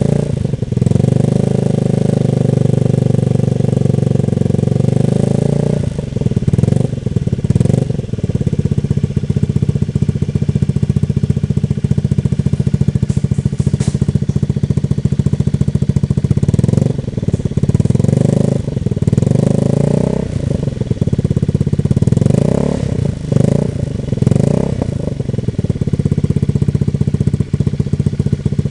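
Honda Scoopy scooter's single-cylinder four-stroke engine running through a Nobi Titan aftermarket exhaust, idling with the throttle blipped several times, each rev rising and falling back to idle.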